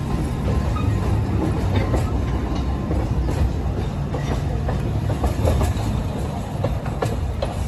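Alishan Forest Railway narrow-gauge train running past: a steady low rumble of the train with scattered clicks and clacks of wheels on the rails.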